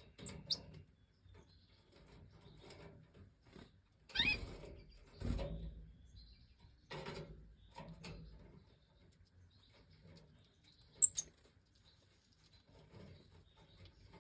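A few brief, high-pitched goldfinch chirps, the sharpest near the end, among scattered scuffling noises and a dull thump about five seconds in.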